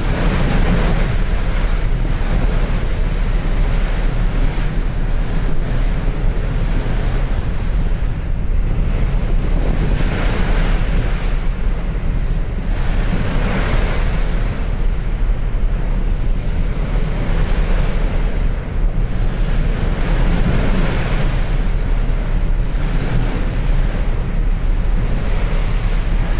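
Wind rushing over the microphone aboard a ferry at sea, in gusts that swell every few seconds over a low rumble, with the rush of sea water beneath.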